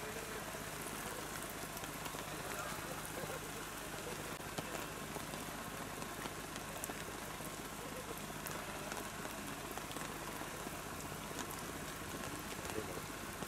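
Steady rain pattering, a constant hiss dotted with small drop ticks, over a faint low steady hum.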